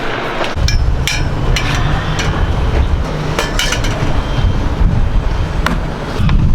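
Wind buffeting the microphone: a low rumble that starts suddenly about half a second in, with scattered sharp knocks and clicks over it.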